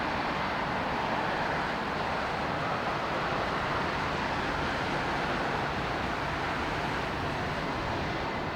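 Steady jet engine noise from an Airbus A350-900's Rolls-Royce Trent XWB turbofans as the airliner lands, swelling slightly a few seconds in.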